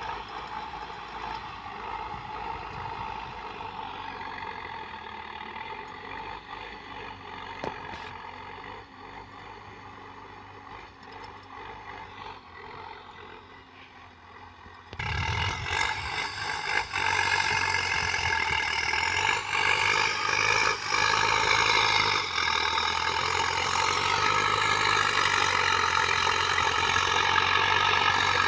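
Preet 6049 tractor's diesel engine running steadily while working with a plough. The sound jumps suddenly louder about halfway through and stays loud.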